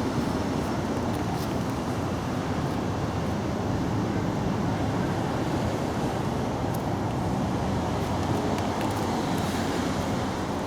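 Steady outdoor background noise: a low, even rumble like distant road traffic, with no distinct event standing out.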